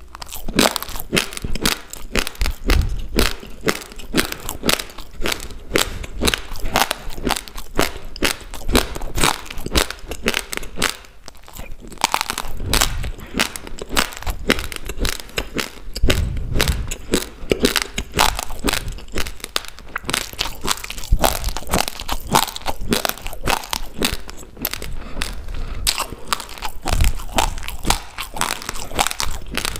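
Close-miked chewing of a mouthful of uncooked rice: a rapid, continuous crunching as the hard grains are crushed between the teeth, with a few dull low bumps now and then.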